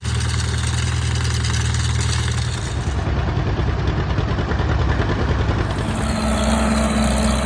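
Farmall Super C tractor's four-cylinder engine running steadily; its low note shifts about two and a half seconds in and again around six seconds.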